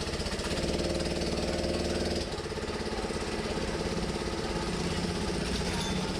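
Motorcycle engine running, revving up for a couple of seconds and then dropping back to a lower, steady speed.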